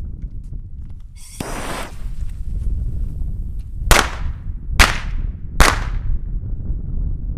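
Small firework: a short hiss about a second in, then three sharp bangs under a second apart. Wind rumbles on the microphone throughout.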